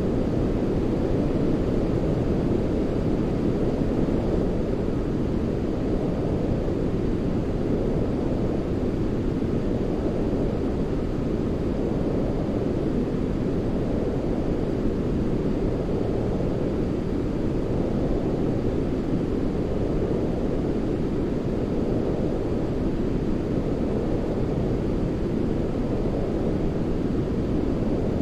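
Steady, deep rushing noise of a sleep-noise track for babies, weighted low like a rumble, its upper edge swelling gently and slowly every few seconds.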